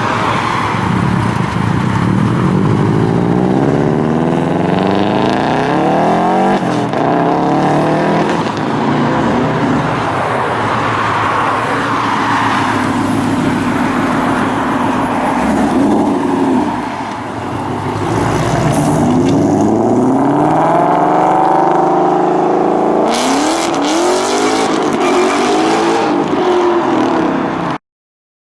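Cars accelerating away one after another, engine and exhaust notes rising in pitch several times as they pull off. The sound cuts off suddenly near the end.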